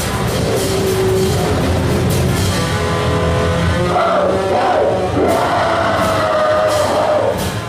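Harsh noise music: a loud, dense, unbroken wall of distorted sound over a rumbling low end, with wavering pitched tones that slide up and down and scattered sharp crackles.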